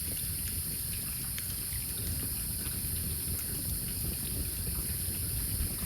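Log campfire burning, with a few faint scattered crackles over a steady low rumble and hiss.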